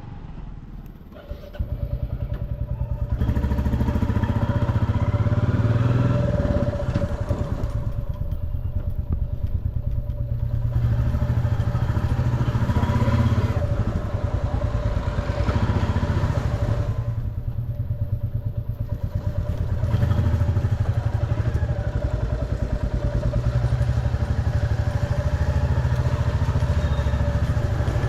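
Motorcycle engine running under way, heard from the rider's seat: a steady low pulse that grows louder about a second in, with street traffic around it.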